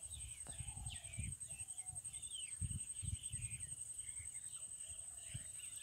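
Small birds chirping and calling again and again, over uneven rumbling of wind on the microphone and a steady high-pitched whine.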